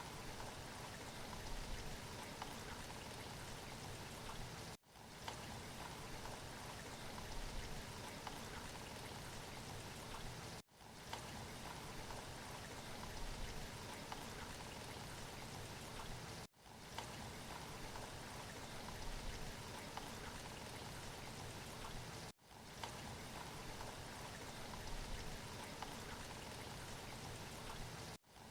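Steady rain, a recorded rain loop that cuts out for a split second about every six seconds before starting again.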